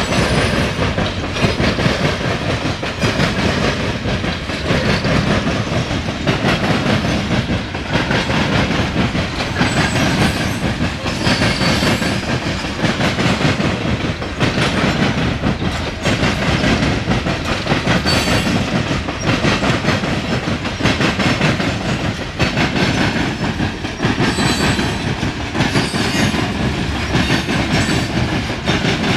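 Loaded coal hopper cars of a freight train rolling past: a loud, steady rumble and clatter of steel wheels over the rail joints.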